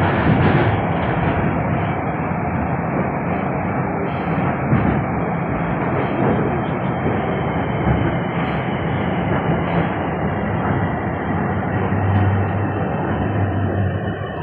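Subway train running, heard from inside the car: a loud, steady rumble and rush of wheels and motors on the track that eases slightly near the end.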